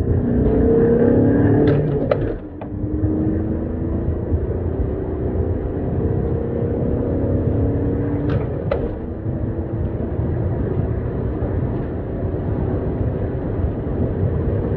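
A 2.0 TDI four-cylinder diesel engine pulling hard under full acceleration. Its note rises, drops briefly about two seconds in as if on a gear change, then climbs slowly and steadily again.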